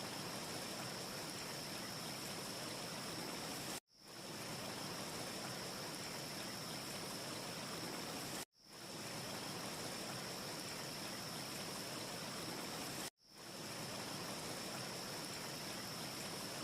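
Steady, even hiss of a looped wind ambience track, with no separate crackles. It cuts out abruptly three times, about every four and a half seconds, each time fading quickly back in.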